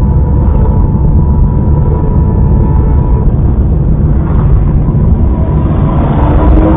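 Steady low rumble of a car driving, road and engine noise picked up by a dashcam inside the car; a rougher, brighter noise swells in the last two seconds.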